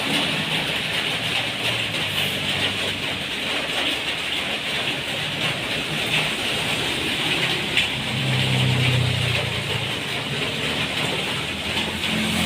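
Steady splashing of aquarium water: a constant hiss with a low hum beneath it that swells about eight seconds in.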